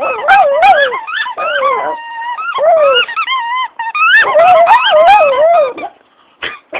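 Dog yodeling: wavering howl-like calls that slide up and down in pitch, in about four long runs, stopping about six seconds in.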